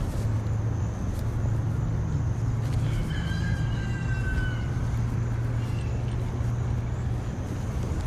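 A single long animal call about three seconds in, holding one pitch and dipping slightly at the end, over a steady low hum.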